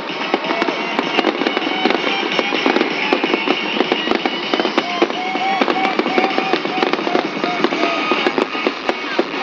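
Fireworks going off in a dense, continuous run of crackles and bangs.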